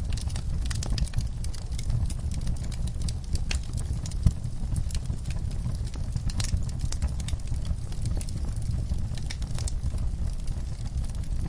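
Fire crackling, with irregular snaps and pops over a steady low rumble and one louder pop about four seconds in.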